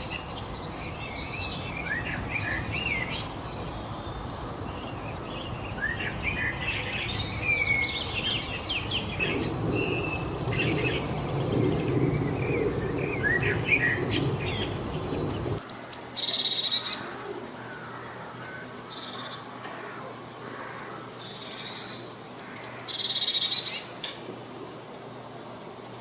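Several wild birds singing and chirping over a steady background hiss. About fifteen seconds in, the sound changes abruptly to a quieter background with short, very high repeated chirps and a few louder calls.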